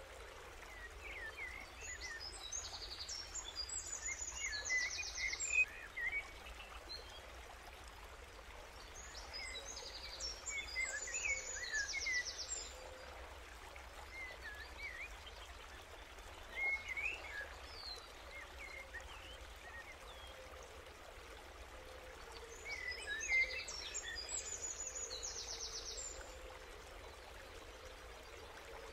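A songbird singing in three bouts, each a few seconds of chirps ending in a rapid high trill, over a steady outdoor background noise.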